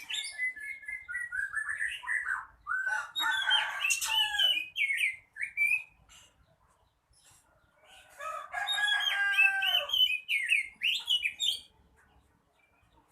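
Oriental magpie-robin singing: varied, rapidly changing whistled phrases in two bursts, the first about six seconds long, then after a short pause a denser run of about four seconds.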